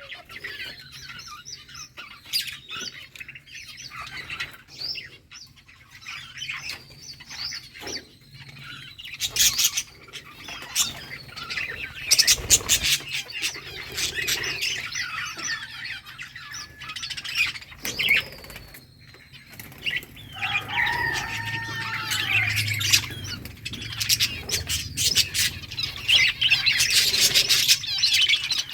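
A flock of budgerigars chirping and chattering continuously, with short calls that fall in pitch and bursts of wing flapping.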